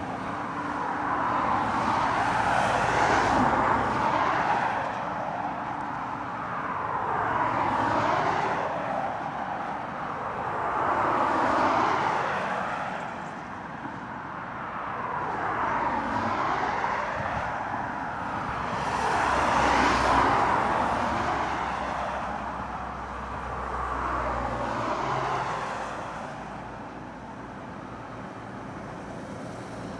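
Road traffic on a climbing stretch of the A75, about six vehicles passing one after another, each rising and fading as it goes by, with tyre hiss and engine noise.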